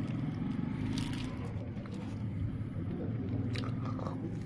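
A person chewing a wrap, with a few short sharp mouth clicks, over a steady low background rumble.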